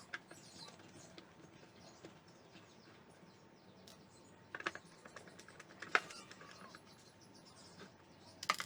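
A few sharp clicks and taps over a faint background, a handful of them near the end, typical of tools and parts being handled during electronics repair work.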